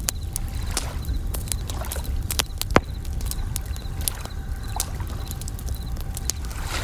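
Campfire crackling with frequent sharp pops, the loudest about three seconds in, over a low steady wash of waves. Bell crickets (suzumushi) chirp in short repeated high trills throughout.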